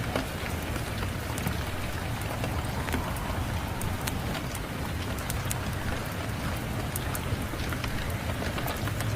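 Steady rain with a low rumble underneath, mixed with scattered sharp pops and crackles of a wood fire.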